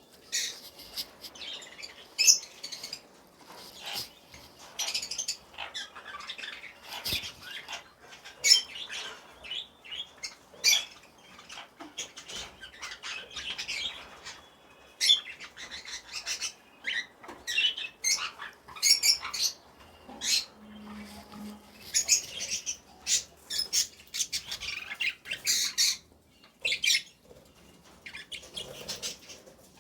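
Caged pet parrots chirping and squawking in quick runs of short, high, sharp calls, with brief pauses between the runs.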